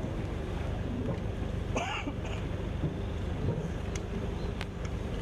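Steady low engine drone with wind on the microphone. A brief voice calls out about two seconds in, and a couple of sharp clicks come in the second half.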